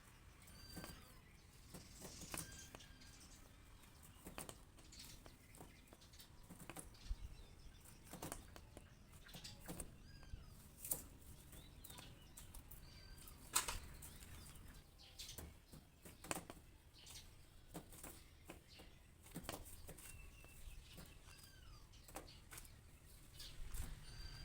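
A small bird fighting its reflection in a mirror: irregular sharp taps and wing flutters, with a few faint chirps.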